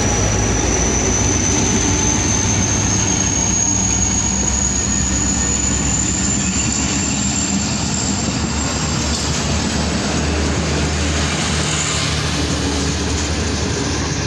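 Passenger train hauled by Pakistan Railways HGMU-30 diesel-electric locomotive 8222 rolling past close by: a steady low rumble of engine and coach wheels on the rails, with a high whine that slowly rises in pitch.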